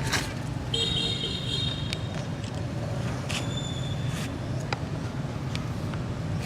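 A steady low hum like a running engine or passing traffic, with a few sharp clicks and a brief cluster of high, steady whistle-like tones about a second in.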